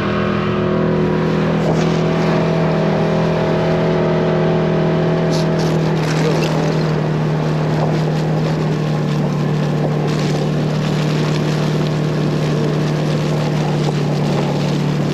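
A motor vehicle's engine running at a steady speed, with rough wind or road noise over it.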